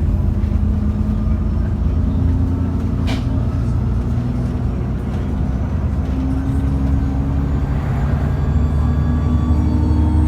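Cummins ISBe 6.7-litre inline-six diesel engine of an ADL Enviro400 bus running steadily under way, with a faint turbo whine that drifts up and down in pitch and a single sharp click about three seconds in.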